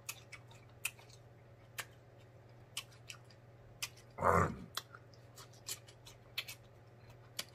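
Close-miked chewing of a sauce-dipped cucumber slice: scattered sharp crunches and wet mouth clicks. About four seconds in comes a brief moan.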